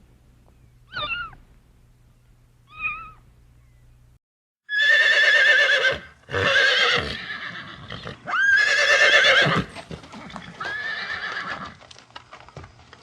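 Two short cat meows, then a brief break and a horse whinnying four times, each neigh long, loud and quavering in pitch.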